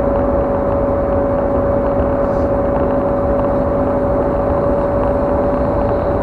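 Car in motion on a highway, heard from inside: the steady rumble of tyres and engine, with one constant hum-like tone over it.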